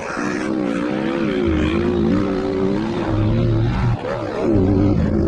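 Dirt-bike engines revving and running on a motocross track, the pitch wavering up and down as the throttle is worked, with a brief drop and a rising rev about four seconds in.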